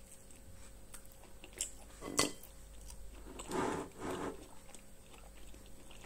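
Biting into and chewing toast spread with cream cheese, with a couple of sharp crunches around two seconds in. A short sound of the voice follows about a second later.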